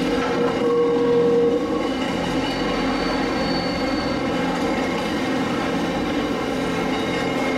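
Heritage train running on the line: a steady rumble, with a clear whining tone lasting about a second near the start and fainter high-pitched tones in the middle.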